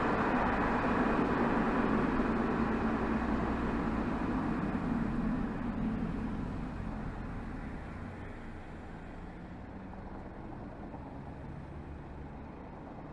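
Exhaust note and road noise of a BMW 320xd's 2.0-litre four-cylinder turbodiesel (B47D20) while driving. The sound dies down over the first eight seconds or so and then holds at a quieter steady level.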